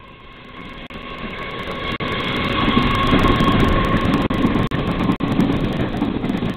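Passenger train passing through the station: its sound swells to a peak about three seconds in and stays loud, with a steady whine and several sharp clicks of the wheels over the rails.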